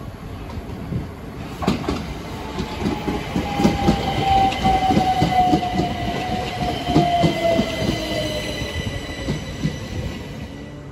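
Southern Class 377 electric multiple unit running past at speed: fast, regular clatter of wheels over the rail joints, with a whine that falls in pitch as it goes by. The sound eases off near the end as the train clears.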